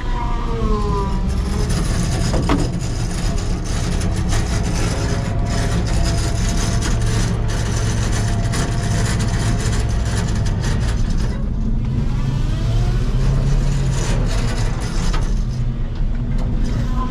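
Dump truck engine running steadily as the truck is driven, with brief rises and falls in pitch and frequent clanks and rattles from the truck. The owner suspects the transmission is failing.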